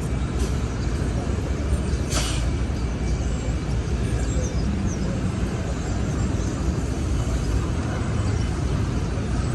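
City street traffic: a steady low rumble of passing vehicles, with one brief sharp sound about two seconds in.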